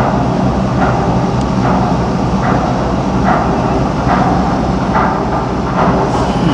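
A large engine running steadily, with a low hum and a regular swell about every 0.8 seconds.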